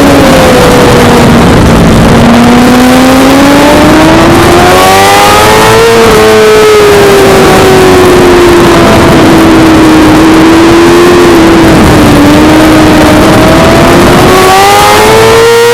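Suzuki GSX-R600 inline-four racing engine at speed on track, its pitch climbing for about five seconds, easing slowly down over the next several, then climbing again near the end, over a steady rush of noise.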